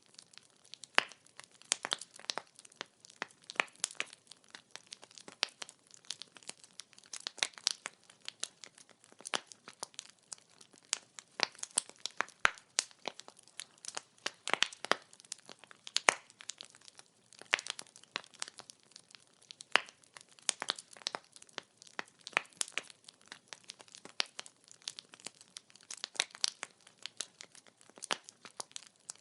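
Firewood burning in a wood fire, crackling with many irregular sharp snaps and pops, several a second, some louder than the rest.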